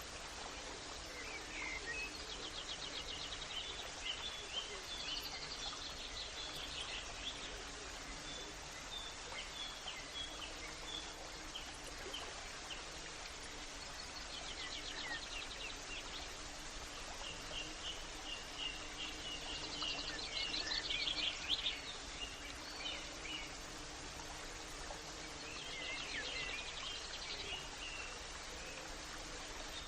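Birds singing over a steady background hiss, with trilling, chirping song phrases recurring every five or six seconds.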